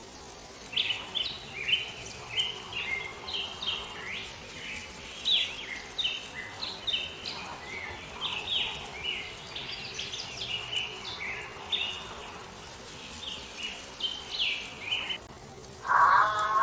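Small birds chirping: a dense run of short, high chirps in quick, irregular succession over a faint steady hiss, stopping shortly before the end.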